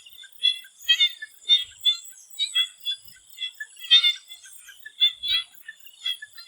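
Swamp frogs calling in a chorus of short, repeated croaks, about two a second and overlapping, over a steady high-pitched insect drone.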